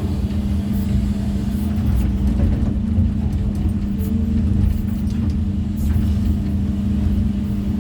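Excavator diesel engine running steadily under load, a deep drone with a low rumble, with a few faint sharp clicks over it.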